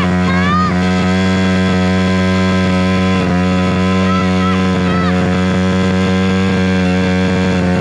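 Small Amazon pit bike engine held at a steady, very high speed, pinned and being run hard until it blows up.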